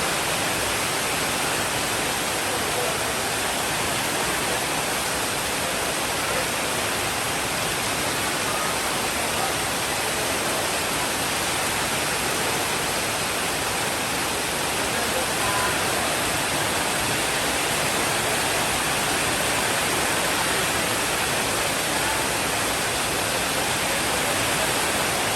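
Steady rainfall: an even, unbroken hiss with no thunder rolls or distinct drops standing out.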